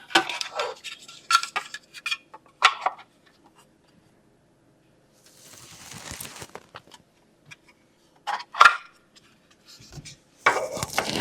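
Hard plastic parts of a bird feeder kit clicking and knocking against each other as they are handled and fitted together, with a soft rustle in the middle. A louder, dense burst of noise starts near the end.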